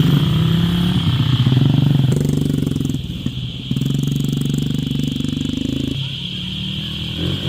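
A small engine running, its speed shifting a few times, easing off about two seconds in and again near six seconds.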